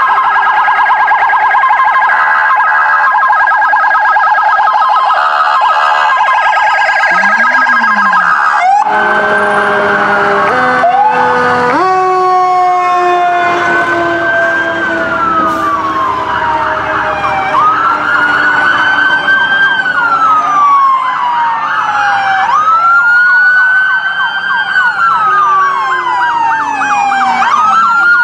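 Police car electronic sirens in a procession. A fast warbling yelp runs for about the first eight seconds, then several sirens wind up into slow wails, rising and falling every few seconds and overlapping one another.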